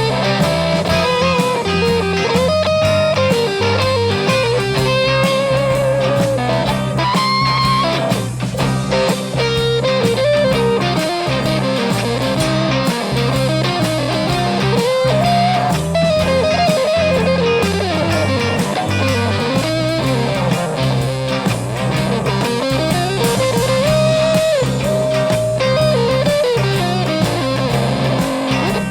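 Live rock band playing an instrumental break: an electric lead guitar solo with bent notes over rhythm guitars, bass and drums.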